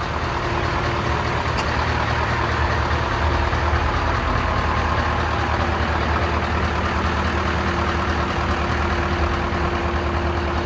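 Heavy truck's diesel engine idling steadily, a low even rumble with a constant hum.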